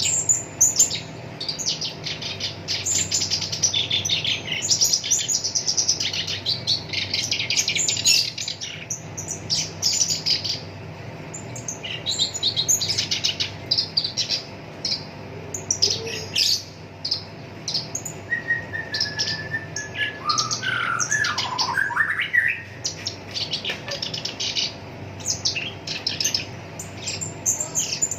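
Black-browed reed warbler singing: long, fast runs of harsh, chattering notes, with a held whistle and a lower swooping phrase about two-thirds of the way through.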